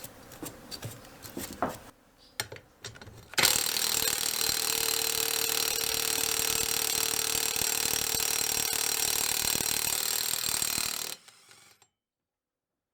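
A few clicks and knocks of hand tools on metal, then a small power tool running steadily for about eight seconds before cutting off suddenly.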